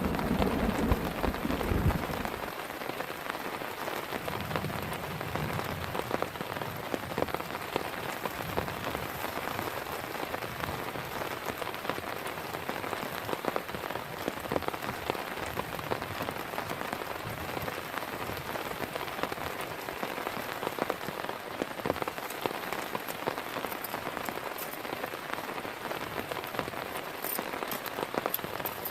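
Heavy rain falling steadily, with many individual drops striking close by. The tail of a low thunder rumble dies away in the first two seconds or so.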